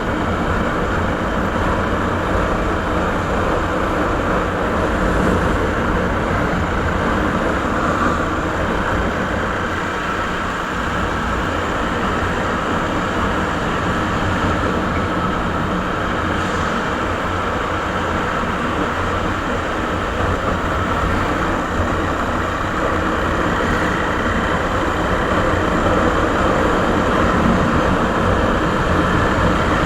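Suzuki Savage (Boulevard S40) 650 cc single-cylinder four-stroke engine running steadily through its stock exhaust, growing a little louder near the end.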